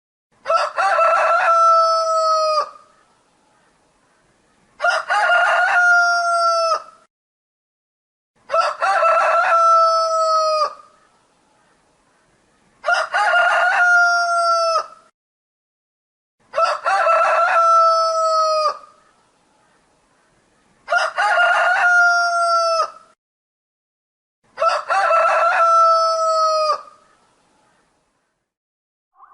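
Rooster crowing seven times, one long cock-a-doodle-doo about every four seconds, the same crow repeated each time.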